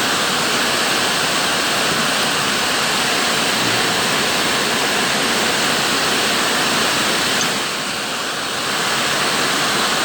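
Heavy rain pouring down steadily, a dense even hiss that eases slightly for about a second around eight seconds in.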